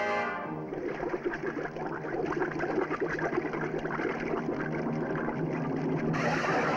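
A steady mechanical rattling and whirring, a cartoon sound effect, that follows the last notes of a brass music cue and gets brighter about six seconds in.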